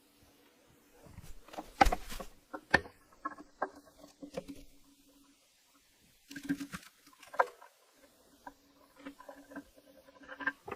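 Workshop clatter of hand tools and metal parts while an old air compressor is stripped down: scattered clicks, scrapes and a few sharp knocks, the loudest about two and three seconds in. A faint low hum comes and goes underneath.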